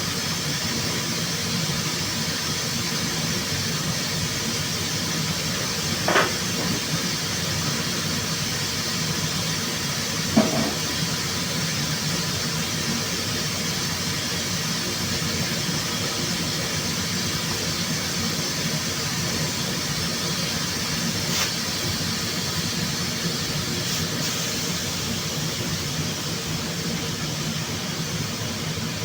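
Steady hiss of rushing air, with a few brief knocks, the clearest about six and ten seconds in.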